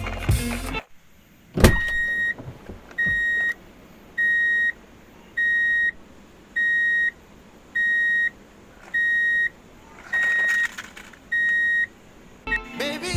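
An electronic beeper sounding one steady high tone, about nine beeps roughly a second and a bit apart, after a sharp click. Music stops at the start and returns near the end.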